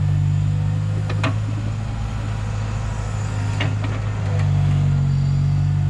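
Heavy machinery's diesel engine running with a steady low drone, with a few short sharp clanks about a second in and near the middle.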